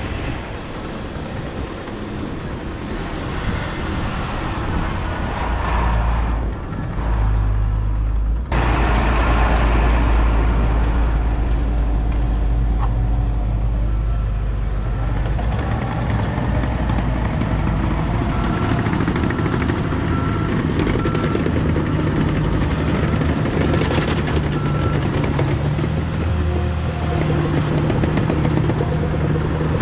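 Diesel engine of a Volvo A25G articulated haul truck running as the truck works, the drone building over the first several seconds and changing abruptly about eight seconds in, then running steadily. A faint repeating beep sounds through the middle.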